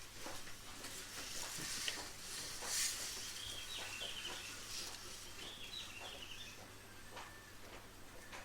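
Quiet interior of a 701-series electric train with only a low steady hum and a few light clicks, as when it is standing still; a short run of faint high chirps comes in the middle.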